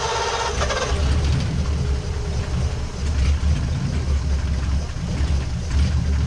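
1940 Ford's flathead V8 running just after being started, its speed falling over the first couple of seconds and settling into an uneven idle. The engine will idle but dies as soon as it is given throttle, an ignition fault the mechanics are chasing through the coil wire and a damp distributor.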